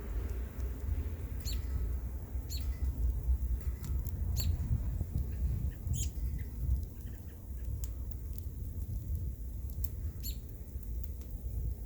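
Wood bonfire crackling, with sharp pops every second or two over a steady low rumble of wind on the microphone.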